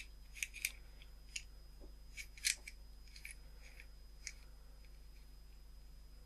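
Faint, irregular small metallic clicks of a steel nut and washers being threaded and hand-tightened onto a small bolt. The sharpest ticks come about two and a half seconds in, and the clicking dies away after about four and a half seconds.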